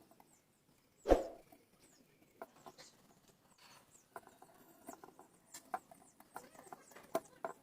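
A sharp click or knock about a second in, then scattered small clicks and scratchy handling noises, as of headphone parts and cable being handled during the repair.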